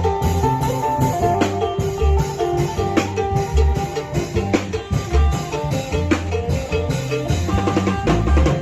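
Isan phin (northeastern Thai plucked lute) playing a lively melody over klong yao long drums and other percussion, in a driving beat of deep drum strokes and sharp clicks.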